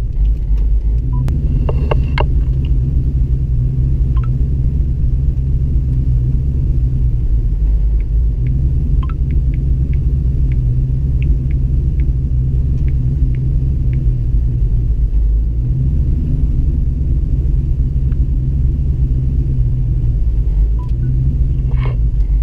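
Ford Mustang's engine idling steadily, heard from inside the cabin as a constant low rumble, with a few faint light ticks in the middle.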